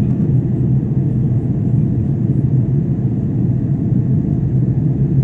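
A steady low rumble, even and unchanging throughout.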